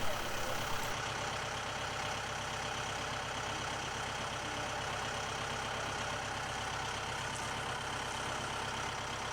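Engine idling steadily, an even hum that holds the same speed throughout.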